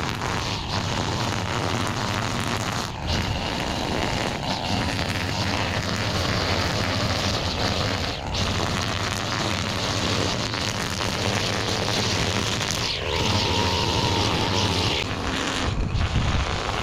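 Small gas engine of a lawn-care power tool running steadily, with a brief thin whine about three seconds in and a lower one near the end.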